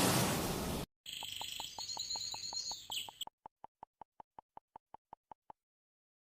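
An airplane's noise fades out in the first second. After a brief gap, birds chirp for about two seconds over a steady run of short, even pips, about six a second, which stop about five and a half seconds in.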